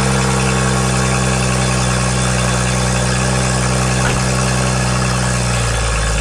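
BMW M135i's turbocharged straight-six idling loudly through its modified exhaust just after a start, still warming up. The idle steps down slightly near the end.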